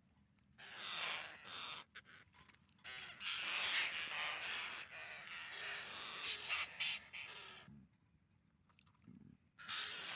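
Long-tailed parakeets calling in three bouts, the longest running for several seconds in the middle, with short quiet gaps between.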